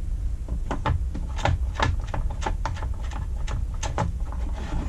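Irregular clicks and taps, a few a second, from handling a chainsaw's bar and chain while its bar tensioner is turned toward the negative setting.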